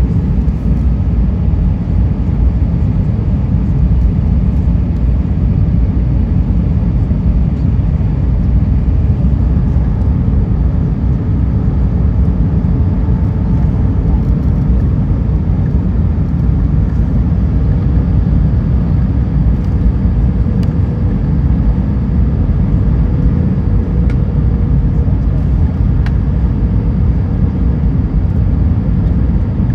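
Steady low rumble of engines and airflow heard inside the cabin of an Airbus A320 in flight, with a faint steady whine over the middle part.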